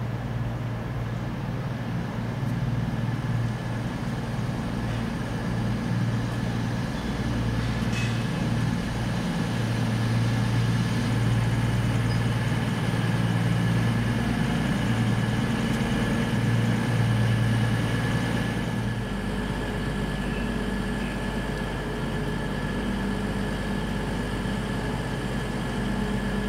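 Train at the platform running steadily: a low engine hum with steady higher whining tones. About two-thirds of the way through, the low note drops and settles at a new pitch.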